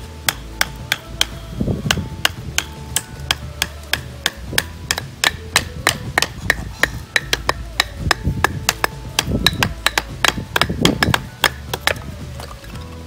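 Hammer driving tent pegs into the ground: a long run of quick, even blows, about three to four a second, stopping near the end.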